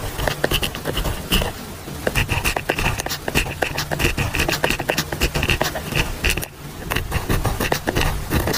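Pen writing on paper: a quick run of scratching strokes and small taps of handwriting, with a brief pause about six and a half seconds in.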